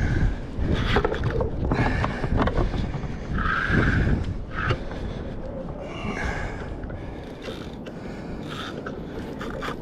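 Irregular knocks, clicks and scrapes of handling on a kayak, busiest in the first half and easing off after about five seconds, over steady wind and water noise.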